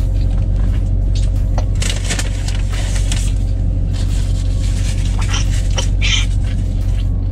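Low, steady hum of the Dodge Charger's engine idling, heard inside the cabin. Over it come chewing, mouth smacks and the crinkle of a foil burger wrapper and a napkin.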